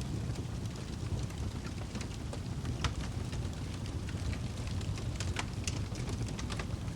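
Wood fire crackling in a fireplace: a steady low rumble of flame with sharp, irregular pops and snaps, a few louder ones around three seconds in and between five and six seconds.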